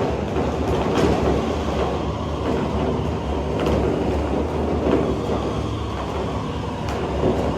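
A large stadium crowd making a steady roar, with a few sharp cracks now and then.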